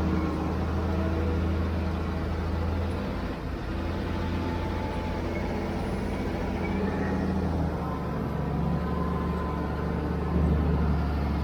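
Diesel engine of heavy construction machinery running, its pitch shifting a few times as the load changes and stepping up louder near the end.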